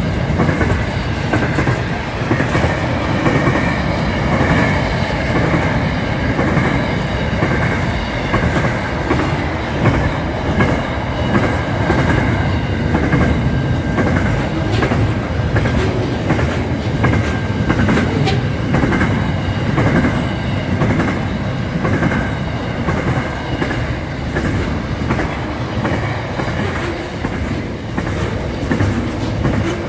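Single-stacked container freight train rolling past: a steady rumble of wagons with the clickety-clack of wheels over rail joints and thin, steady high tones above the rumble.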